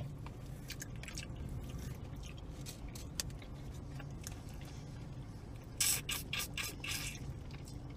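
Close-miked chewing and wet mouth sounds of people eating chicken wings and pizza, with a cluster of sharper smacks and clicks about six to seven seconds in, over a steady low hum.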